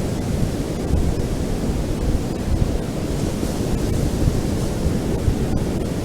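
Ocean surf on a beach: a steady, low rumble of waves, with wind on the microphone.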